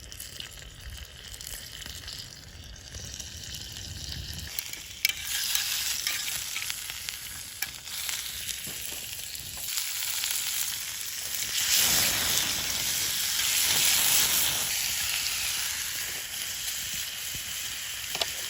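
Goya champuru (bitter melon stir-fry) sizzling in a hot pan. The sizzle is fainter at first, jumps louder with a sharp click about five seconds in, and is loudest about two-thirds of the way through.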